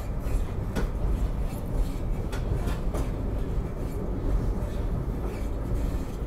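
SEPTA Regional Rail electric train heard from inside a passenger car while it is moving: a steady low rumble, with a few sharp clicks about a second in and again two to three seconds in.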